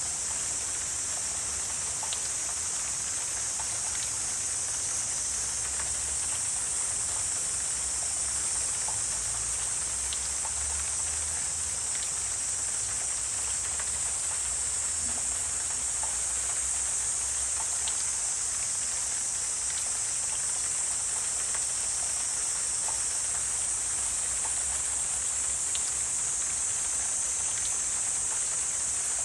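Steady high-pitched drone of an insect chorus, with a few faint scattered ticks and chirps.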